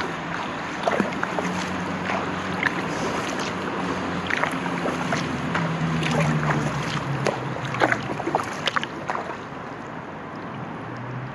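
Kayak paddle strokes splashing and dripping in the water, with wind on the microphone and a low droning hum underneath. The splashes stop about two seconds before the end.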